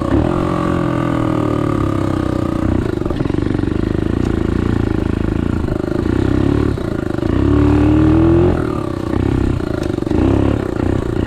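Small 125cc pit bike's single-cylinder engine running under a rider through soft, muddy grass. It revs up about seven and a half seconds in, then eases back off a second later.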